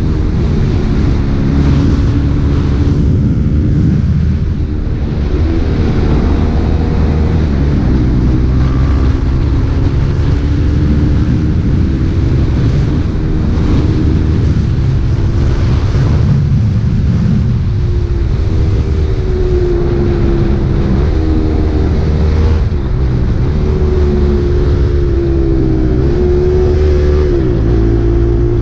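KTM RC 390's single-cylinder engine with an Akrapovič exhaust, running while the bike is ridden. Its note dips and rises several times with throttle changes, over a steady rush of wind noise.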